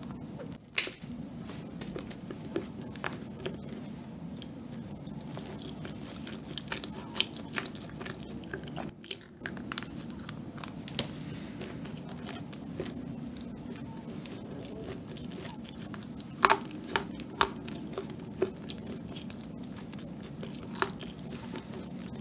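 Close-up chewing and biting of a soft chocolate madeleine, with many short wet mouth clicks and smacks scattered through; one sharp click stands out about three quarters of the way through.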